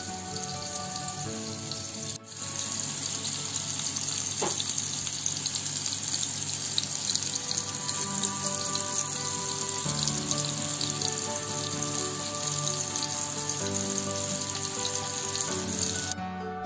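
Ground-beef burger patties frying in oil in a nonstick pan, a steady sizzling hiss. It drops out briefly about two seconds in, comes back louder, and stops suddenly near the end.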